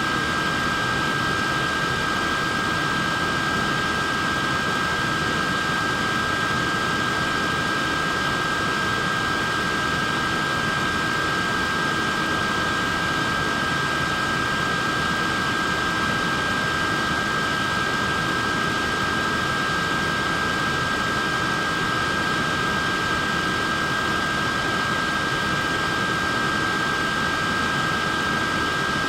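Neck fan running continuously: a steady rush of air with a constant high motor whine of two close tones over it.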